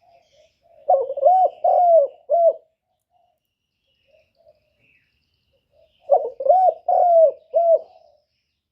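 Spotted dove cooing: two phrases a few seconds apart, each a run of about four short arched coos, the 'cu gù' call used to excite and lure wild doves. Faint chirps of small birds between them.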